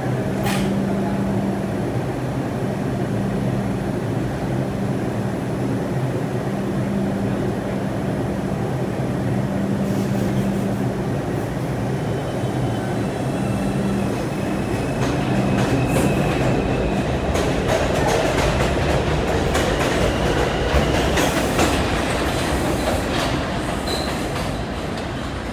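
New York City Subway R142 train running on the rails, a steady hum at first, getting louder past the middle with wheels clacking over rail joints and a faint wheel squeal.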